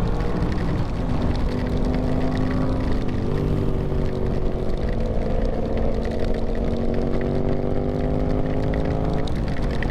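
Sport motorcycle engine running under way at a steady cruising speed, its pitch holding level with a brief shift about half a second in and another near the end.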